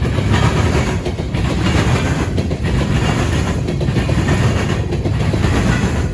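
Freight cars of a grain train rolling past, their wheels clattering over the track in a steady rhythm that repeats about every 1.2 seconds.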